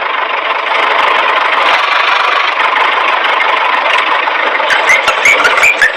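Tractor engine sound running steadily at idle, rough and thin with no deep low end. Short chirpy tones come in near the end.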